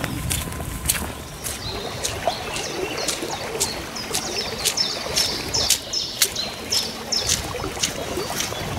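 Small birds chirping, with many short, sharp high notes, over a steady outdoor hiss of background noise.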